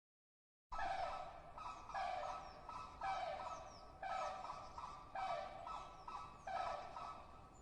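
Flamingo calling: a run of about six honks, roughly one a second, each starting strong and fading.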